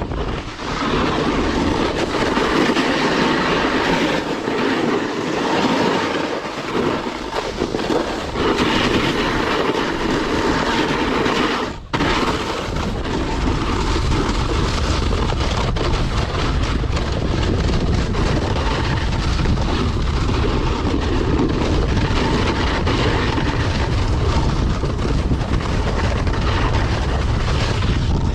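Steady rushing noise of a snowboard sliding and scraping over snow, mixed with wind on the microphone while riding downhill. There is a short drop about twelve seconds in, and after it the noise carries a deeper rumble.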